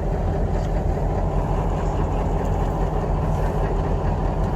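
Steady low rumble of a vehicle on the move, even in level throughout.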